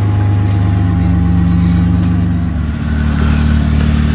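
An engine running steadily at idle, a low even hum that shifts to a slightly lower pitch about two and a half seconds in.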